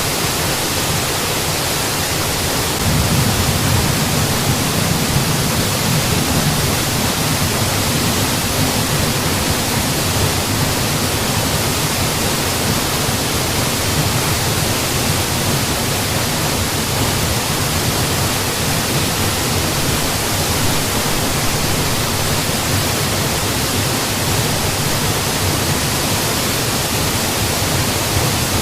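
Mountain waterfall: water falling in a steady, even rush. Its low rumble grows a little stronger about three seconds in, then holds.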